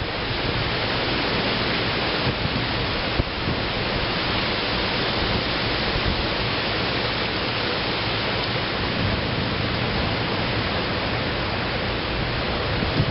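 Heavy rain pouring down in a thunderstorm: a steady, even hiss that does not rise or fall.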